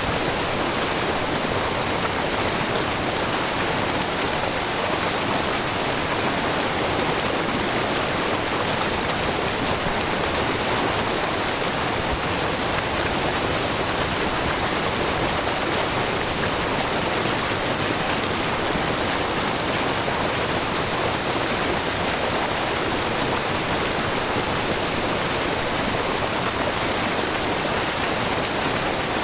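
Steady rush of a wide, low waterfall: groundwater falling in many thin streams over a rock face, with a brook babbling below, an even hiss-like roar that does not change.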